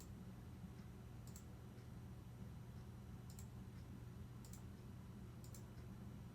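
Faint, sharp clicks, most of them quick doubles, coming about every one to two seconds over a low steady hum.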